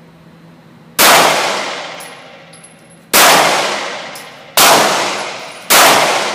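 Smith & Wesson M&P Shield 9mm pistol fired four times at uneven intervals of about one to two seconds, each shot sharp and followed by a long echoing decay.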